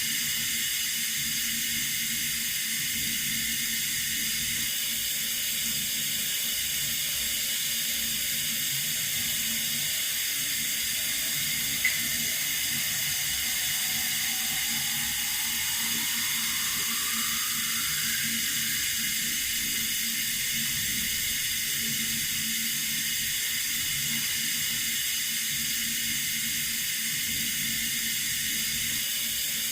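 Water running steadily from a tap, a constant hiss with a faint low hum beneath it. A brief click about twelve seconds in.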